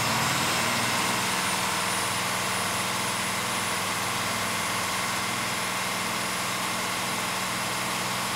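International DTA360 turbocharged straight-six diesel of a school bus running steadily under load, heard from inside the bus, with an even, unchanging engine hum.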